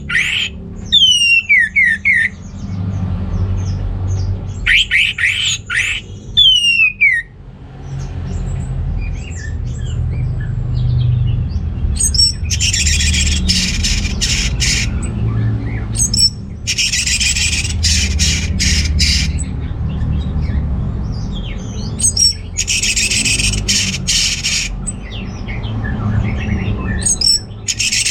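Orange-headed thrush singing. Quick descending whistled phrases come first, then from about halfway through several harsh, rapid rasping bursts of two to three seconds each, repeated.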